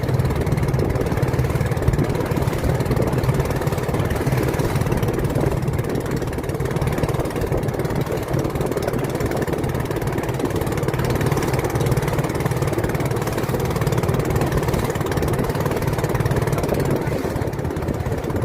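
Boat engine running steadily, an even low drone with no change in speed.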